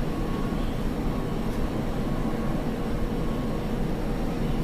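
Steady rumble of jet aircraft engines running on the ground, with a faint steady whine over it.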